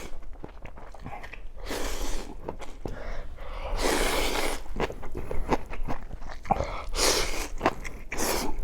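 A person biting and chewing wild matsutake mushroom: a run of close, crisp mouth clicks and crunches, with a few louder, longer noisy stretches.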